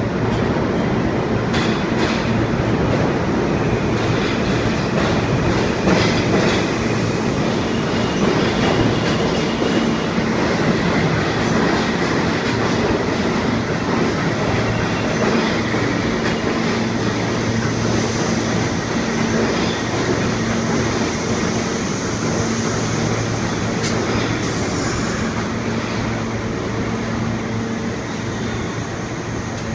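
An R62A subway train rolling through a station, its wheels clicking over the rail joints under a steady running rumble and hum. A faint high wheel squeal comes in during the second half.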